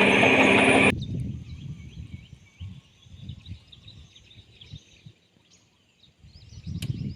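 Caterpillar D6R XL bulldozer's diesel engine running loudly, cut off abruptly about a second in. After it come faint bird chirps over uneven low rumbling, which drops away for about a second and rises again near the end.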